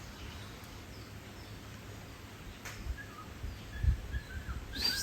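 Faint outdoor ambience with a few short bird chirps in the second half, low bumps and a click near the end.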